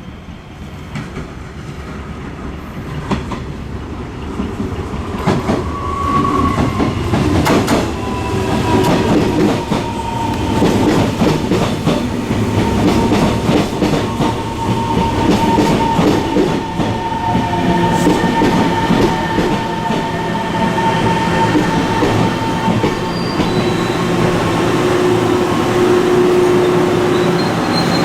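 Passenger train running into the station: the sound grows louder over several seconds with wheels clacking over rail joints, then a steady high squeal from the brakes or wheels holds for more than ten seconds as it slows.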